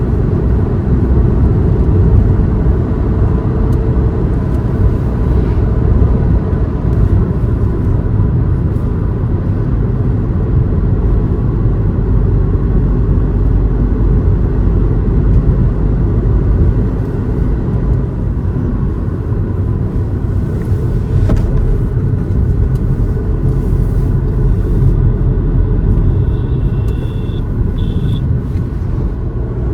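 Car driving at a steady pace: continuous low road and engine rumble, with a brief high tone near the end.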